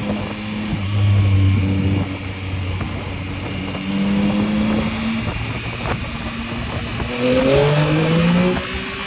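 Yamaha MT-09's three-cylinder engine running under the rider, with wind noise. The engine pitch holds and shifts as the throttle changes, then climbs near the end as it accelerates.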